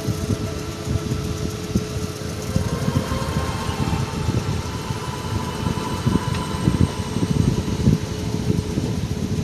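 Engine of a 7.5-inch gauge miniature railway locomotive running steadily.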